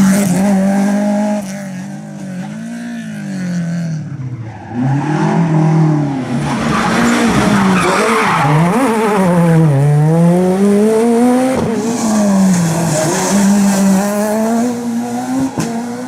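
Rally car engine revving hard, its pitch repeatedly climbing and dropping as the driver goes through gear changes and lifts, with tyre noise as the car slides through corners. It is quieter for a few seconds near the start, then loud again.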